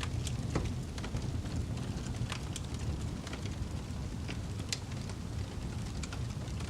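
Fire crackling: scattered sharp pops over a steady low rumble.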